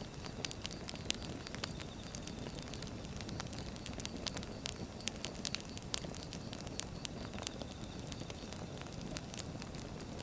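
Wood fire burning, a steady low rumble of flames with frequent irregular sharp crackles and pops from the burning logs.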